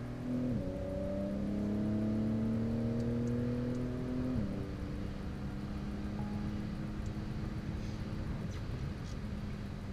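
Porsche 911 (992) flat-six engine heard from inside the cabin under load: the note dips briefly about half a second in, then climbs steadily for about four seconds before dropping and running on at a lower, steadier pitch.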